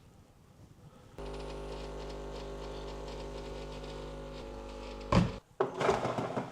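A small electric motor or appliance switches on about a second in and hums steadily for about four seconds, then stops with a loud knock followed by clattering.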